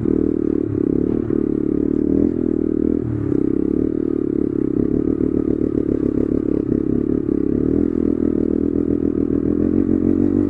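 Honda Grom's 125 cc single-cylinder four-stroke running through an aftermarket exhaust with a baffle fitted, held at a fairly steady throttle as the bike is ridden up a hill on a wheelie.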